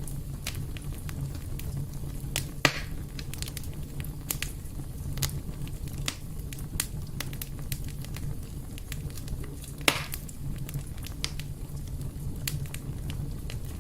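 Fireplace fire crackling: irregular sharp crackles over a low steady rumble, with two louder pops, one a few seconds in and one near the ten-second mark.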